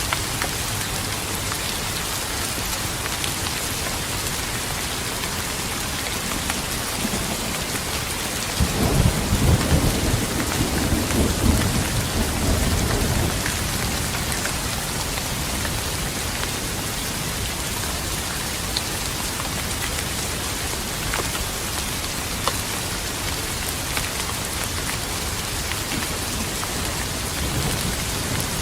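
Steady heavy rain hissing, with a roll of thunder rumbling in about a third of the way through and fading out over several seconds. Another rumble begins at the very end.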